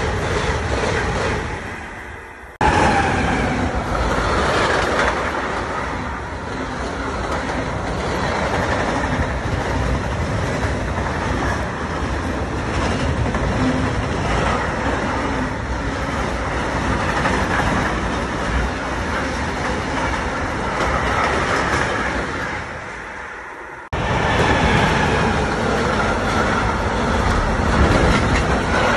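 A white ICE high-speed train passes close by and fades away. After an abrupt cut about two and a half seconds in, a container freight train rolls past with a steady loud rumble of wheels on the rails. The sound fades and cuts abruptly again near the end, and the freight wagons go on rolling past.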